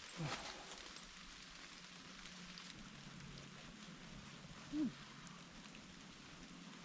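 Steady light rain pattering in the woods. About five seconds in there is a brief, low sound that falls in pitch.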